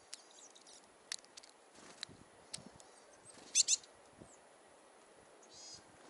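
Small wild birds' high calls: two loud short ones a little past the middle and a buzzy one near the end. Sharp light clicks earlier on fit a varied tit's beak picking seeds from a small metal tin.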